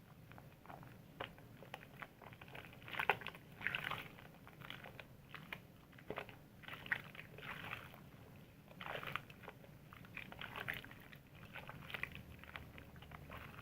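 Soap being lathered: wet squishing with many small, irregular crackles and clicks of foam, coming and going in uneven spells.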